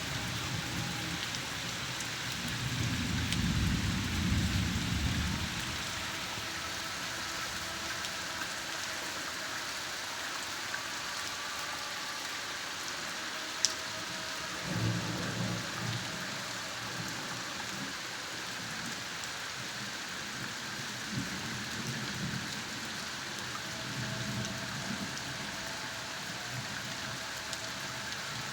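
Steady rain pattering down, with a few low rumbles swelling and fading, the strongest a few seconds in, and one sharp tick about halfway through.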